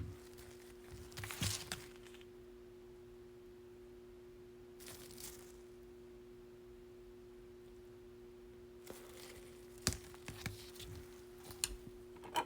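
Faint rustling and a few light clicks of baseball cards being handled and flipped through, over a steady low electrical hum.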